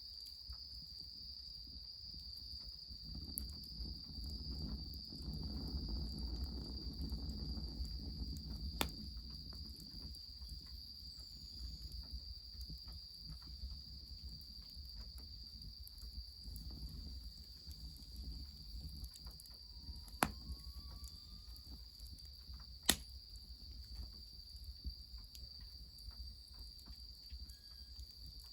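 Crickets chirring in one steady high-pitched tone, over a low rush that swells for several seconds about three seconds in and again more briefly later. A few sharp cracks stand out, the loudest two about twenty and twenty-three seconds in.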